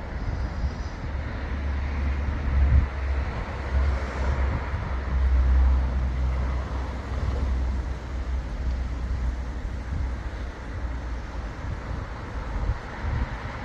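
Wind buffeting the microphone outdoors: a gusting low rumble that swells and drops irregularly over a steady rushing hiss.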